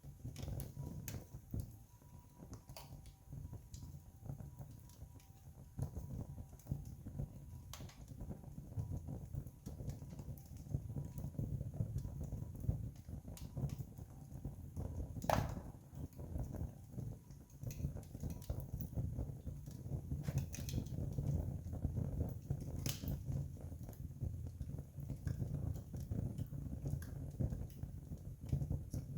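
Wood campfire burning, crackling steadily with scattered small pops, a sharper pop about halfway through and another some seconds later.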